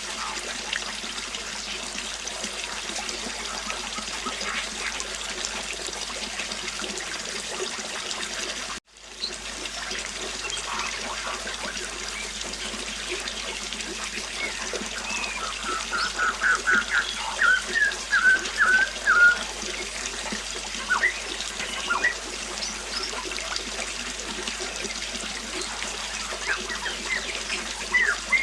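River water flowing and trickling steadily, with birds calling over it. A bird gives a quick run of repeated notes about halfway through, then scattered chirps follow. The sound cuts out for a moment about a third of the way in and fades back.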